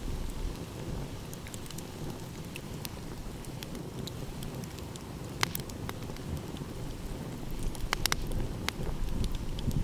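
Wood fire crackling, with scattered sharp pops and a quick cluster of snaps about eight seconds in, over a steady low rush of the sea.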